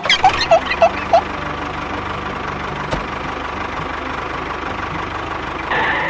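Small motor of a mini tractor running steadily with a fast, even pulse. It is preceded by about five short rising toots in the first second.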